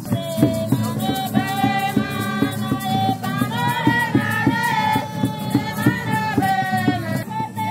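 Melodic singing over a rattle shaken in a steady beat, about three strokes a second.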